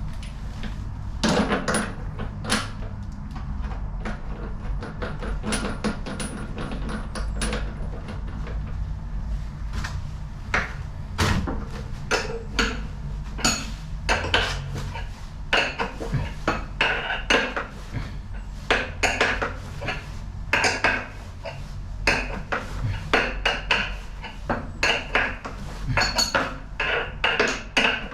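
Metal tools clinking and knocking on metal parts during washing machine repair work: many irregular sharp clicks and clanks, coming thicker in the second half.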